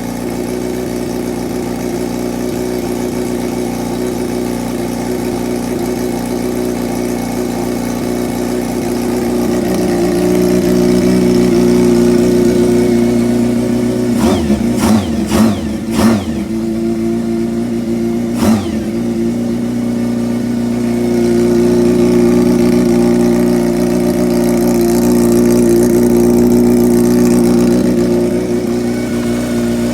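Kawasaki GPZ400F fitted with a Zephyr χ air-cooled inline-four engine on Keihin CR carburettors, idling, twice rising slowly to a slightly higher steady speed; in the middle the throttle is blipped three times in quick succession, then once more about two seconds later.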